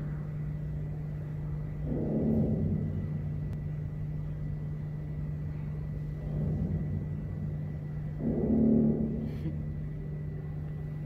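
Male dusky kob (giant kob, Argyrosomus japonicus) drumming: sonic muscles beat against the gas-filled swim bladder to give low, rapid drumming calls. Three calls of about a second each come a few seconds apart, over a steady low hum. These are spawning-season calls, made to attract females and to warn off other males.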